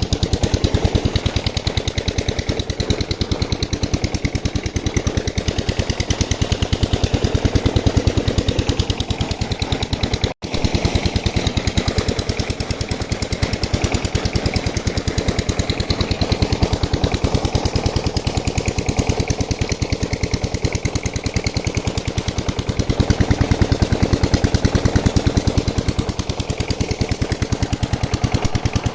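Old diesel engine running steadily at a fixed speed while driving a tubewell water pump, its firing beats coming as a fast, even knock. The sound cuts out for an instant about ten seconds in.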